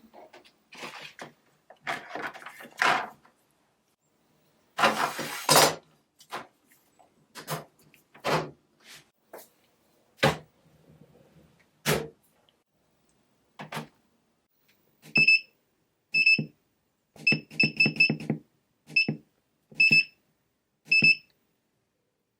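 Workshop handling sounds: scattered knocks, clicks and short scraping noises. From about two-thirds of the way in come about ten short, high electronic beeps, each with a click, like buttons being pressed on a machine's control panel.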